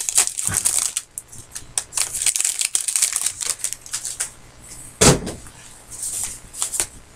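Trading-card pack wrappers crinkling and tearing and cards being handled, in irregular crackly rustles, with one louder knock about five seconds in.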